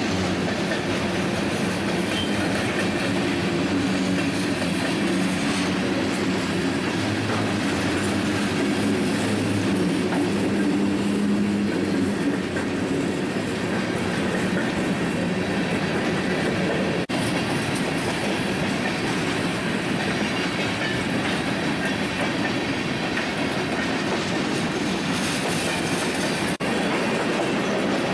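A train rolling past, its cars making a steady rumble with wheel clickety-clack over the rail joints; a low engine drone is mixed in for the first dozen seconds or so. The sound cuts out for an instant twice, near the middle and near the end.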